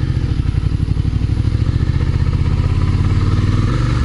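Motorcycle engine running at low, steady revs while riding, its note dropping slightly near the end.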